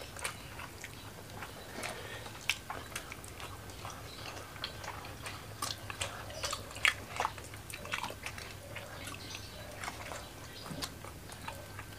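Close-miked eating: chewing and biting of fresh lettuce and roasted chicken with chili sambal, heard as many short wet clicks and crunches at irregular moments. A faint steady hum sits underneath.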